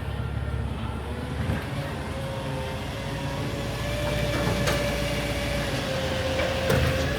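Garbage truck running: a steady low rumble with a thin, steady whine over it that rises slightly about halfway through, and a couple of faint clicks.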